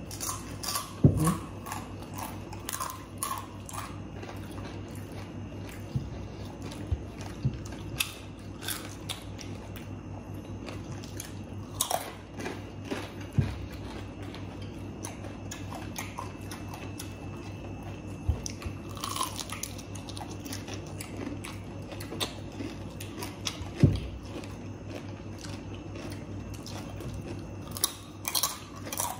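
Two people biting and chewing fried food, with scattered sharp crunches and mouth clicks. The loudest come about a second in and again about three-quarters of the way through, over a steady low hum.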